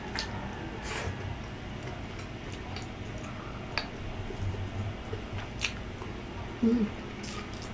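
Close-miked eating sounds: wet mouth clicks and smacks while chewing grilled isaw, scattered and irregular. About two-thirds of the way through comes a brief low hum, the loudest moment.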